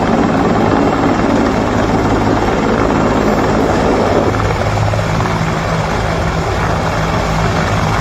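Helicopter hovering close, its rotor and engine giving a steady loud noise over a low hum; the noise eases a little about four seconds in.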